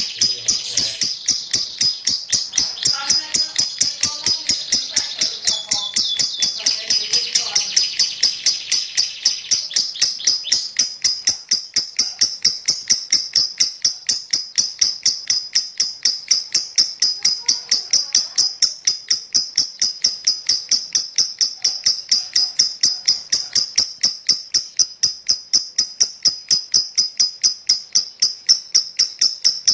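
Lovebird in a long, unbroken 'ngekek' chatter: a rapid, even string of sharp, high chirps, about three or four a second. For roughly the first ten seconds it is fuller and busier, then it thins to a plainer run of chirps.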